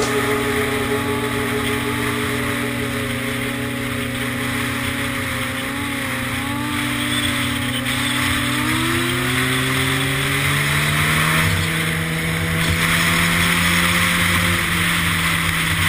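Motorcycle engine running steadily, its pitch rising about nine seconds in and holding higher.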